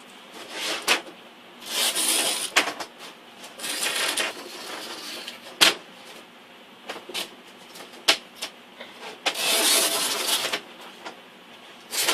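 Old screen mesh being ripped out of a screen door frame where it has stuck fast: several scratchy tearing bursts about a second long, with sharp clicks and knocks between them, the loudest click about halfway through.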